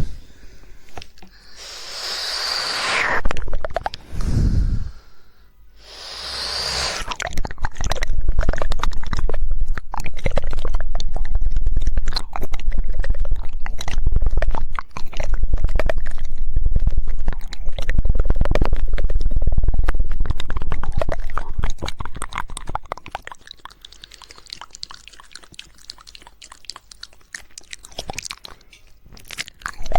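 Close-miked ASMR mouth sounds: two breathy blows in the first few seconds, then a long run of rapid, dense tongue clicks, the 'woodpecker' tongue clicking, loud through the middle and quieter in the last several seconds.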